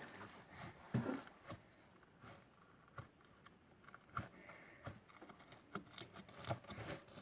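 Pink slime worked by hand, giving off faint, irregular little clicks and pops as air bubbles in its foam burst.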